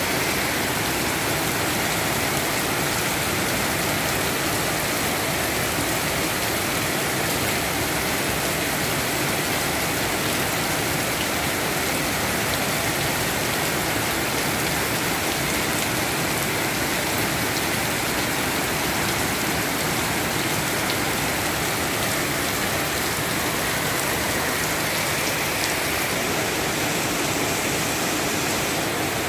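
Heavy rain pouring down steadily, an even hiss that holds at the same level throughout.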